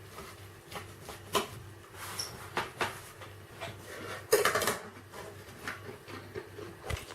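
Cutlery on a plate during a meal: scattered light clicks and knocks, with a louder scrape about four seconds in.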